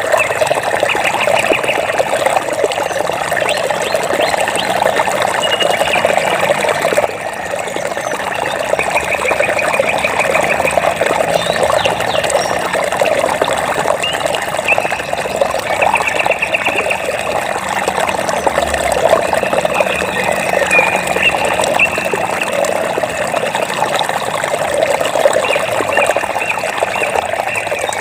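Running water flowing and splashing steadily. Over it, short high trills made of rapid pulses repeat every few seconds, from frogs or insects.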